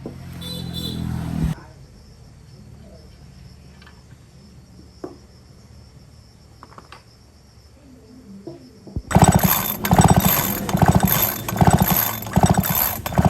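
Husqvarna 365 two-stroke chainsaw engine. A brief rising burst at the start cuts off abruptly. Near the end the engine runs loud, revving in repeated surges about one to two a second.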